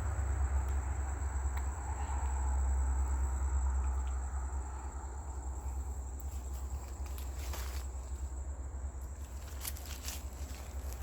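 Outdoor ambience: a low wind rumble on the microphone, a steady high insect drone, and a few scattered footsteps in fallen leaves in the second half.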